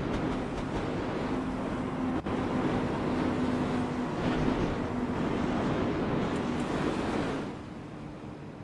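Steady rumble of a moving train with a faint humming tone, dropping away to a much quieter level about seven and a half seconds in.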